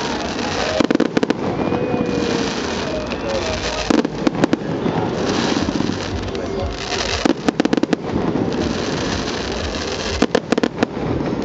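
Aerial fireworks bursting in four volleys of rapid crackling bangs, about one every three seconds.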